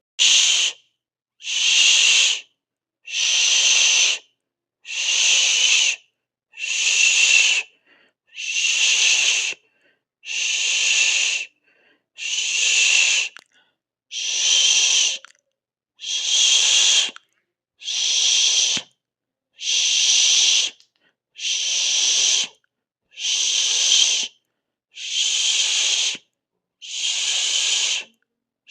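A person hissing through the teeth in even bursts of about a second, one every second and a half to two seconds, with silence between.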